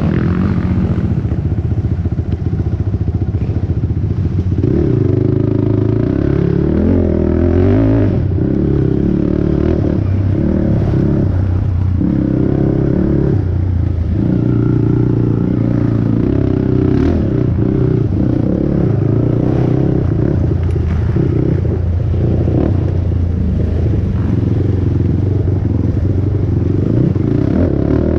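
450-class single-cylinder four-stroke race ATV engine revving hard, its pitch rising and dropping again and again as the rider works the throttle and gears, with scattered knocks from the machine.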